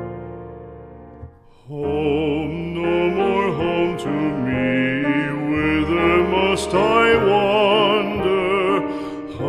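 A slow song: piano notes die away, then about two seconds in a singer with a wide vibrato begins a ballad over piano accompaniment.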